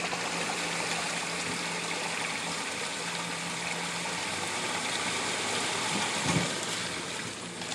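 Truck engine running in reverse with its tyres spinning in wet mud, a steady rushing, splashing noise of mud being thrown, and a short low thud about six seconds in.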